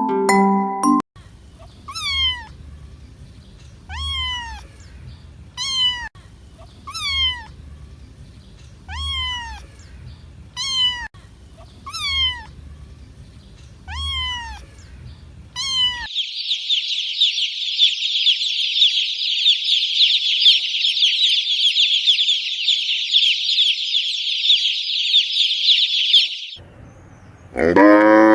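A cat meowing over and over, about nine falling meows spaced a second and a half apart. Then comes about ten seconds of dense, high, continuous chirping from many small birds. Near the end a cow begins to moo.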